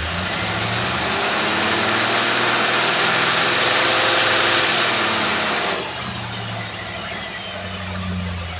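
Test engine fed by a Motorcraft 4300 four-barrel carburetor revving up. Its pitch rises over about four seconds with a loud hissing rush of intake air, then drops suddenly back to a steady idle about six seconds in.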